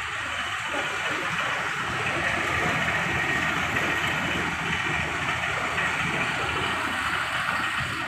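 A ferry's engine running steadily: a low rumble under a constant rushing hiss.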